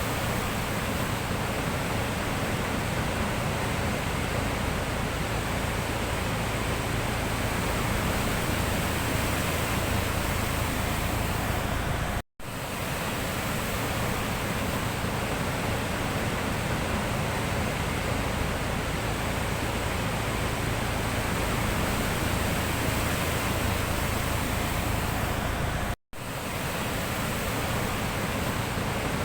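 Steady rush of sea surf, even in level, cutting out for an instant twice.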